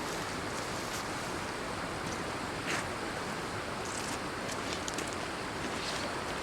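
River water rushing steadily, with a few faint clicks and taps over it.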